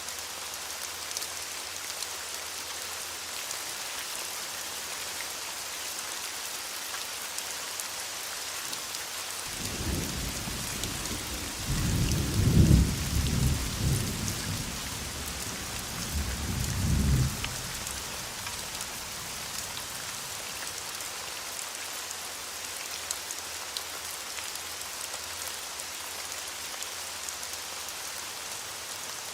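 Steady rain falling as a constant hiss, with a roll of thunder rumbling low from about ten seconds in, loudest a few seconds later, with a last swell before fading out around seventeen seconds.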